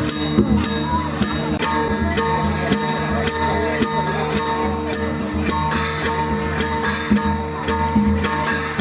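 Shan (Tai Yai) dance-accompaniment music: cymbals struck in a steady beat, about two to three times a second, over ringing gong tones and drum.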